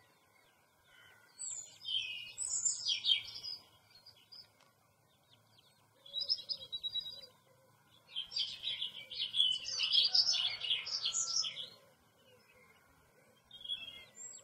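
Small birds chirping in bursts of quick, high twitters, with quieter gaps between. The busiest stretch is from about eight to eleven and a half seconds in.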